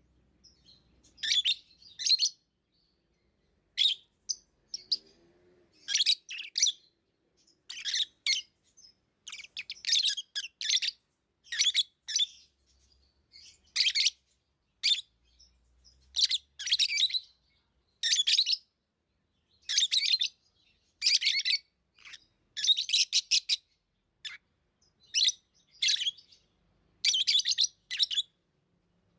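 Pet lovebirds chirping: short bursts of rapid, high-pitched chirps every second or two, with brief pauses between.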